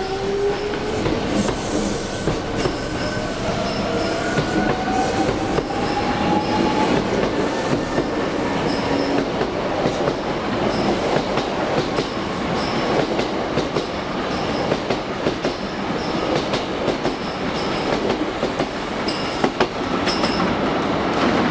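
Hankyu commuter train pulling out: its traction motors whine, rising steadily in pitch over the first several seconds as it gathers speed. The cars then rumble past, their wheels clicking over the rail joints.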